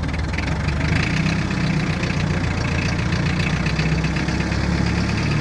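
The Perkins 4203 3.3-litre four-cylinder diesel of a 1962 Lansing Bagnall forklift running steadily, picking up slightly about a second in.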